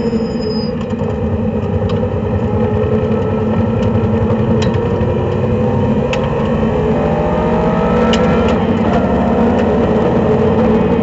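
Race car engine idling steadily, heard from inside the cabin, with a faint rising tone about seven seconds in.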